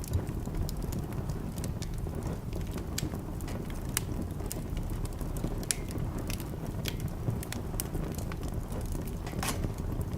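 Wood fire in a fireplace crackling, with scattered sharp pops over a steady low rumble; one louder pop comes near the end.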